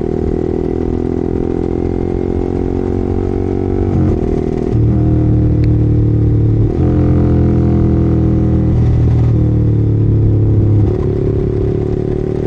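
Yamaha R15 sport bike's single-cylinder engine running steadily while riding. Its pitch dips briefly about four seconds in and again near seven seconds, as the throttle is eased and opened again.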